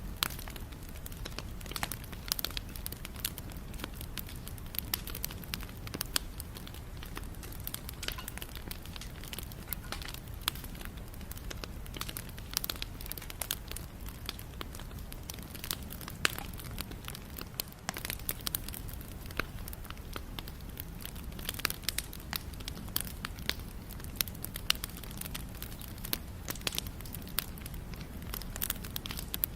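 Wood fire burning, with frequent sharp irregular pops and crackles over a steady low rumble of the flames.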